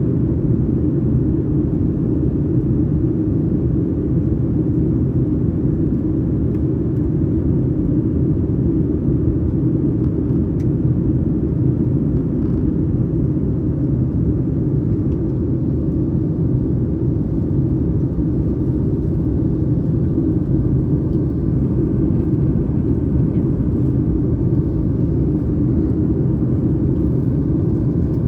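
Steady low rumble of a Boeing 737 MAX 8's CFM LEAP-1B jet engines and airflow, heard inside the passenger cabin.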